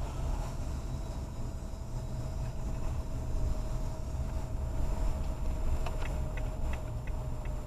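Steady low rumble of a car driving, heard from inside the cabin. About six seconds in, a turn-signal indicator starts ticking at an even pace.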